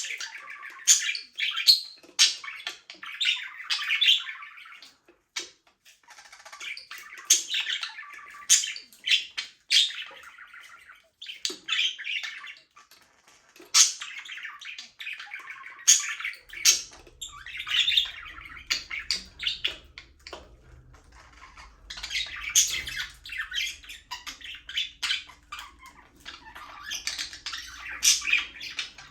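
A group of budgerigars chattering, warbling and chirping together, in bouts with short lulls between, with sharp loud chirps scattered through. A faint low hum comes in about halfway through.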